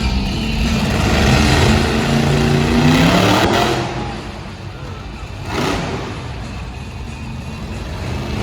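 Monster truck engines revving hard, their pitch climbing about two to three seconds in. Two sharp bangs follow, the second, a little past the middle, the louder.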